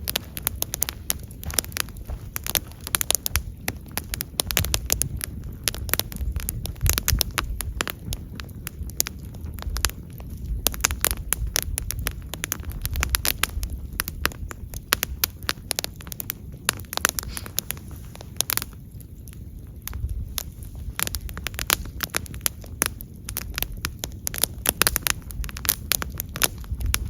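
Burning wood crackling and popping, with many sharp snaps over a steady low rumble of the flames.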